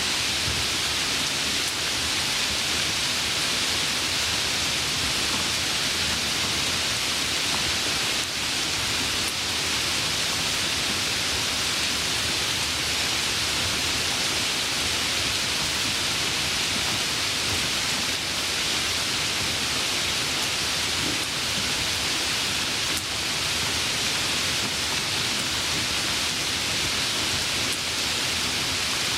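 Steady rain, a dense even hiss of falling water with no breaks.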